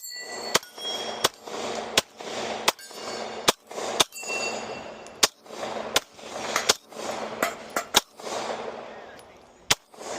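About a dozen gunshots fired in a steady string, roughly one every half second to second with a longer gap near the end, each trailing off in an echo. A brief high ring follows a couple of the shots.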